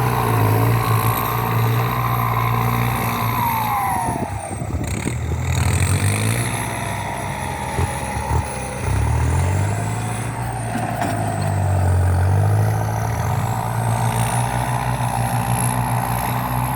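Kubota M8808 tractor's turbo-diesel engine working hard under the load of a disc plough, with a turbo whistle above the engine note. About four seconds in, the revs and the turbo whine fall away, and they build back up a little past the middle.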